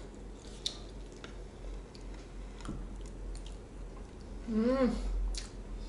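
A person eating a spoonful of blood clam bibimbap: soft chewing with a few light clicks of the metal spoon. Near the end comes a short hummed "mm" that rises and falls.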